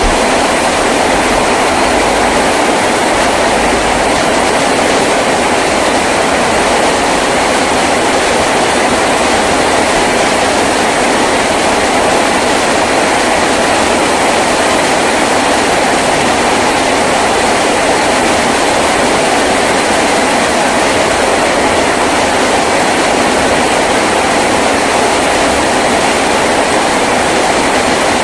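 Heavy rain drumming steadily on a tin roof, a dense, even hiss-and-patter with no letup.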